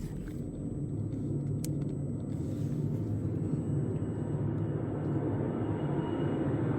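Mail Rail ride train running through a narrow tunnel: a steady low rumble that grows slowly louder, with a few faint clicks early in the ride.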